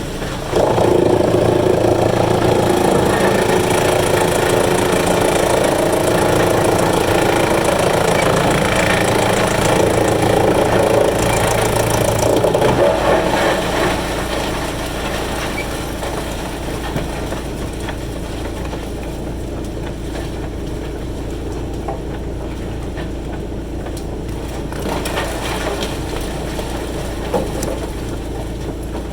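Wood chipper running: a loud engine and grinding sound for about the first thirteen seconds as wood goes through, then a quieter, steady run.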